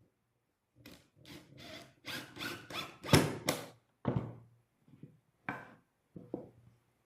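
Japanese cedar wood being worked by hand: a run of short rubbing strokes, about three a second, then a few slower, fainter ones near the end.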